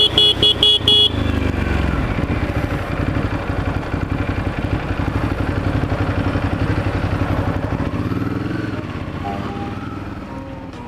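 Yamaha R6 sport bike's inline-four engine running at low revs in city traffic, rising briefly near the end and then fading. It opens with five quick high-pitched beeps in the first second.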